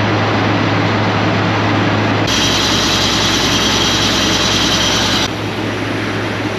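Steady drone of harvest machinery heard from inside the cab, with a constant low hum. About two seconds in, a loud hissing rush starts suddenly, runs for about three seconds and cuts off; the farmer calls it a blast.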